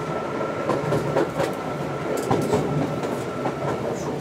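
Hyundai Rotem electric intercity train running, heard aboard: a steady rumble with irregular sharp clicks of wheels over rail joints, and a faint steady high whine through most of it that stops near the end.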